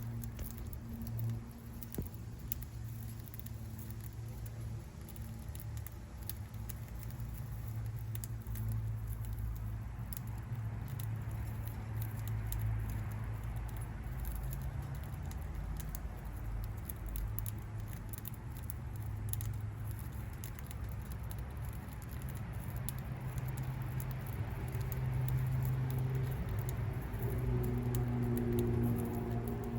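Budgie cracking and husking seeds, a quick irregular run of small clicks, over a steady low hum.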